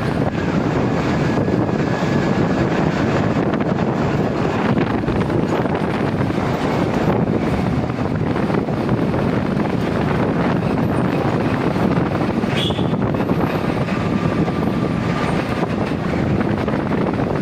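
Truck running down a long descent: a steady, dense rumble of engine and road noise, with one short click about twelve seconds in.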